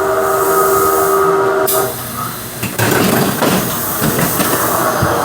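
Ride sound effect of an oncoming train: its horn blares as a steady chord, then cuts off sharply about a second and a half in. After a brief dip, a loud rushing rumble with hiss starts near the three-second mark, played over the ride's sound system.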